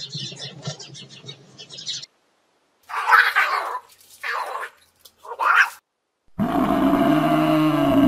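A northern mockingbird chattering in a rapid run of harsh notes, then a cat meowing three times, then a water buffalo giving one long low moo.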